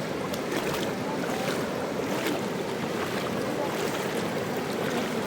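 Fast-flowing river rushing steadily, with brief splashes now and then.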